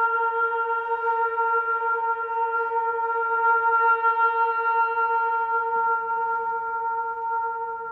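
A sustained musical drone: one steady pitched tone with evenly stacked overtones, wavering in loudness and fading slightly near the end.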